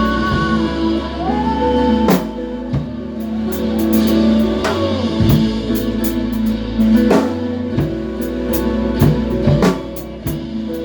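Worship band playing an instrumental passage with no singing: drum kit hits over a bass line, guitar and sustained chords.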